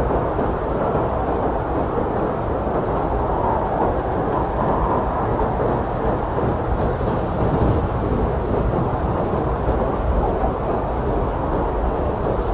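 Strong blizzard wind blowing steadily, a dense low rushing roar with a deep rumble and no breaks.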